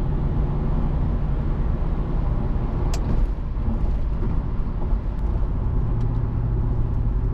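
Infiniti G37's VQ V6 engine with a custom cat-back exhaust running at a steady cruise: a deep, even exhaust tone that holds its pitch.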